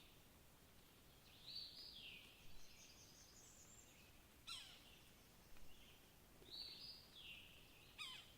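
Faint songbird calls: a series of short chirps, a higher run of notes about three seconds in, and two quick steep downward-sweeping notes, one midway and one near the end.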